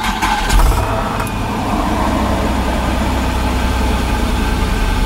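Holden VR Commodore ute's 3.8-litre V6 restarting hot: it catches within the first second with a brief flare in revs, then settles into a steady idle. It is running on a swapped-in VN V6 automatic engine computer and starts readily.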